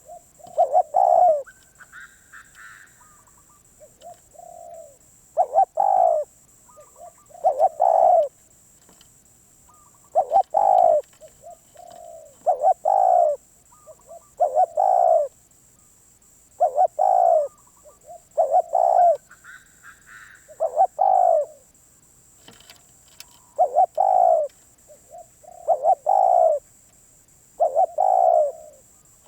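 Spotted dove cooing: short phrases of low, throaty coos, repeated roughly every two seconds. A few faint, higher chirps from another bird come in between.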